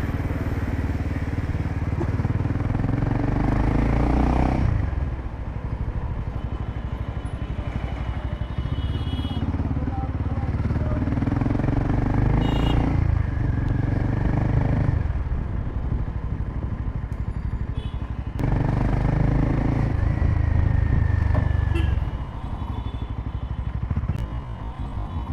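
A Royal Enfield Himalayan 450's single-cylinder engine running through an aftermarket Power Rage exhaust while the bike is ridden. It pulls harder in three spells, at the start, from about 8 to 15 seconds and again around 18 to 22 seconds, and eases off in between.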